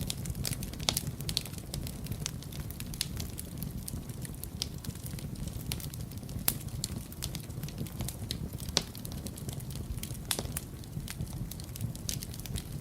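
Wood fire burning in a fireplace: a steady low rumble of flames under irregular sharp crackles and pops, a few louder snaps among them.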